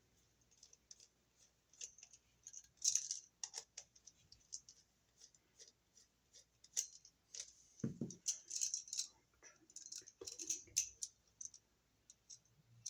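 Small metallic clicks and scrapes of a screwdriver turning down the unused terminal screws on a wall receptacle and handling the device, with a duller knock about 8 seconds in.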